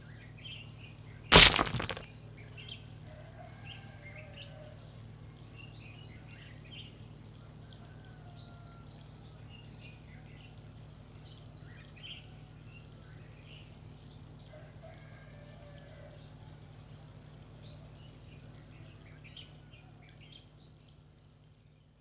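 Small birds chirping and calling over a steady low hum, with one loud knock about a second and a half in. The sound fades out near the end.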